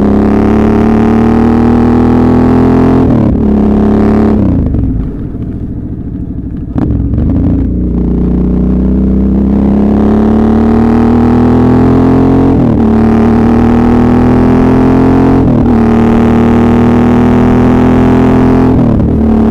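Suzuki V-Strom 650's V-twin engine accelerating through the gears. The revs climb steadily and drop sharply at each upshift, about three seconds in and then three more times in the second half. In between, the throttle is closed for about two seconds of quieter running before it pulls again.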